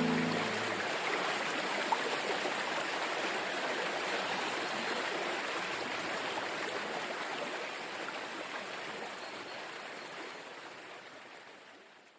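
Running stream water, an even rushing noise with no pitch, as the last sustained chord of the music dies away in the first second. The water sound fades gradually to nothing near the end.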